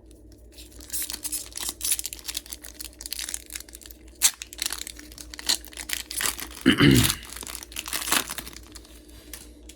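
Foil booster-pack wrapper crinkling and crackling in the hands, with scattered sharp crackles and a brief louder low thump about seven seconds in.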